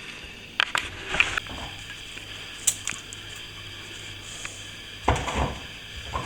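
Steel plastering trowel scraping and polishing the finish coat of plaster, with a few sharp clicks of the blade early on and a longer scrape about five seconds in.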